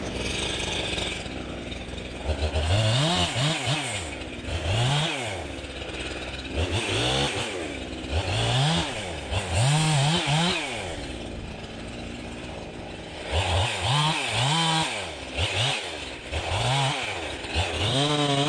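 Jonsered 2165 two-stroke chainsaw revved up and down again and again while cutting, dropping back to idle between each burst of throttle.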